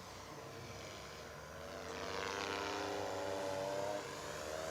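Electric motor and propeller of a 60-inch OMP Hobby Edge 540 RC aerobatic plane in flight, a pitched whine that grows louder from about two seconds in, shifting in pitch, and falls back near the end.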